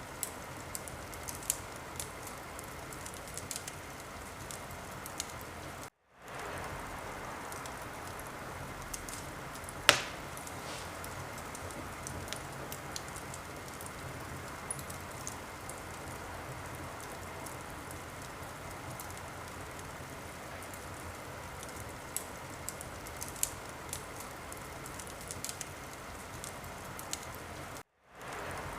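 Wood fire crackling, a steady hiss sprinkled with small sharp pops, and one loud pop about a third of the way through. The sound cuts out to silence for an instant twice.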